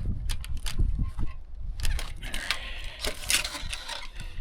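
Irregular clicks, knocks and rattles of a wire fence gate and its hardware being handled, with a denser scratchy, rustling stretch about two to three seconds in.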